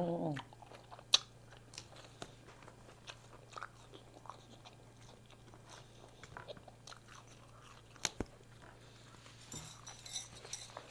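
Close-miked eating sounds: quiet, scattered chewing and lip-smack clicks, with a sharper click about a second in. A low steady hum runs underneath.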